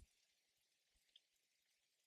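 Near silence, with one faint tick about a second in.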